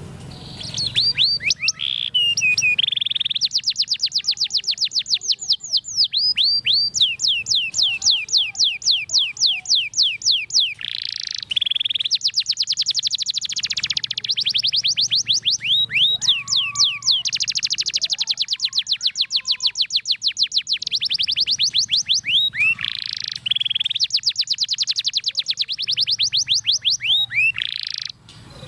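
Domestic canary singing a long, continuous song of fast, high rattling trills of rapidly repeated notes. The runs are broken by a few short swooping notes and brief pauses, and the song stops abruptly near the end.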